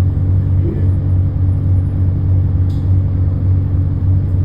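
Ship's engines running with a steady low drone that does not change.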